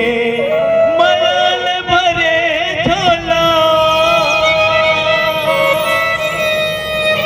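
Music from a Chhattisgarhi jas devotional song to the goddess, a passage of long held, wavering melodic notes between sung lines.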